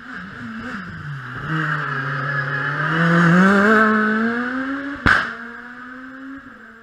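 Rally car engine accelerating hard, its pitch dipping briefly and then climbing steadily over several seconds, with one sharp bang about five seconds in, then a steady note that falls away near the end.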